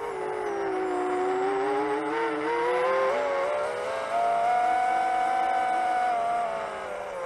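Brushless motors and propellers of a 7-inch long-range FPV quadcopter whining in flight. The pitch dips in the first second, climbs and holds high through the middle, then falls near the end as the throttle changes.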